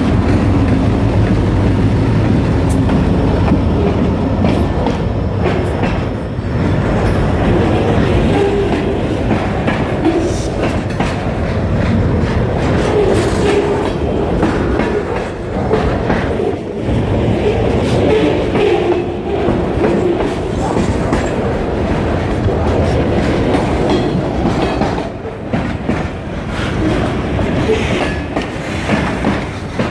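Diesel freight train passing. EMD locomotive engines drone low for the first few seconds, then the freight cars roll by with a clickety-clack of wheels over the rail joints.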